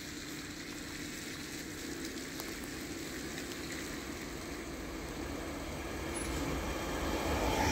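An approaching train, heard as a steady rumble that starts to grow louder about six seconds in as it nears.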